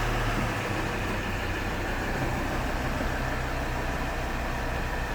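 Volvo XC60 engine idling steadily, just after being started.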